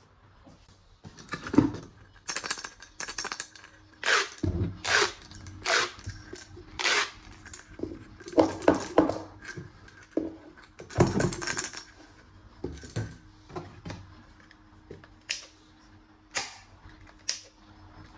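Hard plastic toy gun parts being handled: irregular clicks, clatters and rattles, with a few duller knocks and a busier burst of clattering about eleven seconds in.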